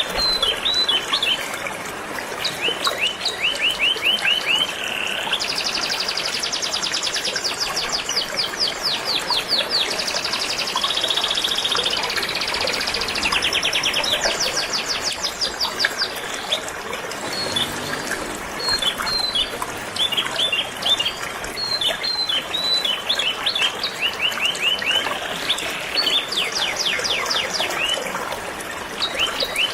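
Canaries singing, long fast trills alternating with short chirps, over the steady rush of a flowing river.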